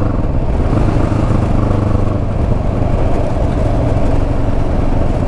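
Motorcycle engine running under way, its note dropping at the start and then holding steady, over a rumble of road and wind noise.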